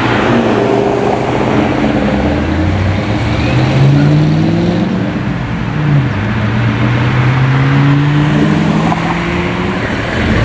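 Ford Mustangs pulling out one after another and accelerating past, their engines running loud. The engine note rises as one car speeds up, drops about six seconds in, and rises again as the next car pulls away.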